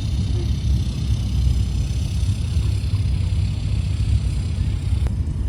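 Car engine running steadily at low revs, a constant low rumble.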